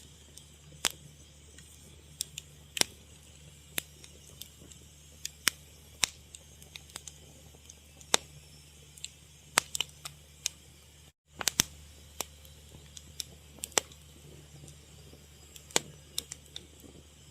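Wood fire crackling: irregular sharp pops and snaps, some louder than others, over a low steady background. The sound cuts out completely for a split second about eleven seconds in.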